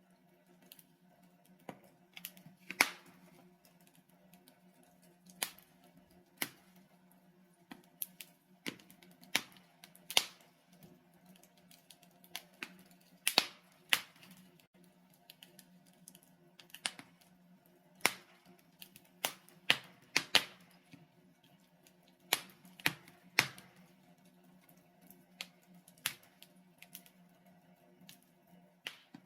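Logs burning in a fireplace, crackling with irregular sharp pops about one to two a second, a few much louder than the rest, over a low steady hum.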